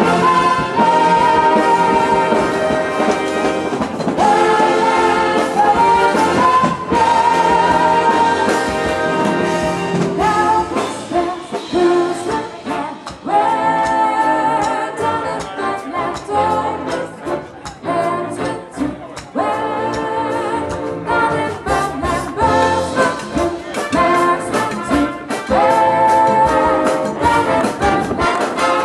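A big band playing live: a brass section of trumpets and trombones holding chords over a drum beat.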